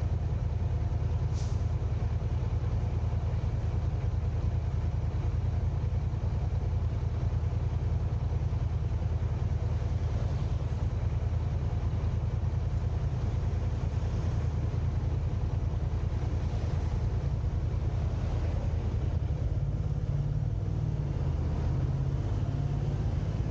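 Car driving along at speed: a steady low rumble of road, tyre and engine noise. A brief high-pitched sound comes about a second and a half in.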